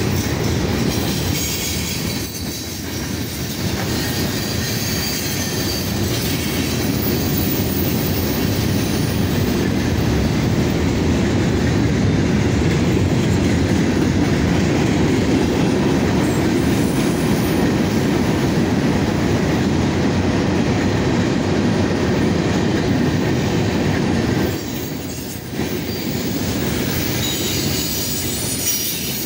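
Freight train cars rolling past close by: a steady rumble of steel wheels on the rails. The loudness dips briefly twice, about two seconds in and near the end.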